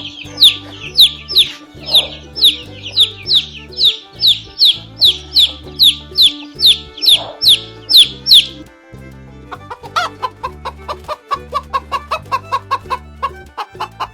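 Chickens calling: a run of high, falling peeps, about two or three a second, then from about nine and a half seconds in a faster, lower clucking. Background music with a steady beat plays under them.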